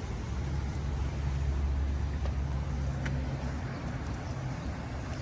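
Low, steady engine hum of a motor vehicle, fading out about four seconds in, with a faint click about three seconds in.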